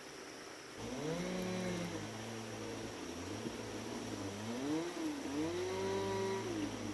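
A small engine starts up loudly about a second in and runs on, its pitch rising and falling as the throttle changes.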